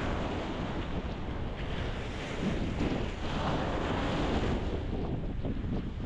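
Ocean waves breaking and washing on a rocky shore, a continuous surging rush that swells about halfway through, with low wind rumble on the microphone.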